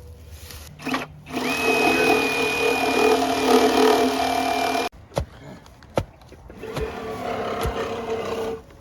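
Power drill running in two spells: about three and a half seconds at a steady pitch, cutting off sharply, then a shorter, quieter run of about two seconds, with a few sharp clicks in between.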